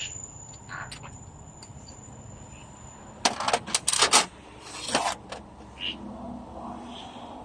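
Metal clattering and clinking, as of tools and metal parts being handled, in a quick cluster of sharp hits about three seconds in and a shorter one a second later, with a few lighter clicks around them.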